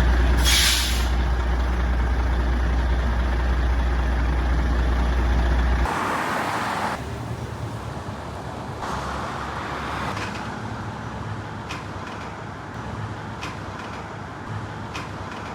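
Fire truck engine running with a heavy low rumble and a short hiss of air about half a second in. About six seconds in the rumble cuts off abruptly, leaving quieter outdoor vehicle noise.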